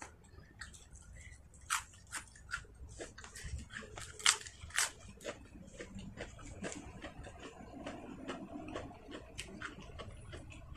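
A person chewing food with the mouth close to the microphone: many short, irregular crunches and mouth clicks, the loudest about four seconds in.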